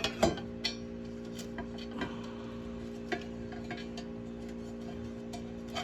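Scattered light clicks and taps of small parts being handled while a Favero fencing scoring box is taken apart, over a steady low hum.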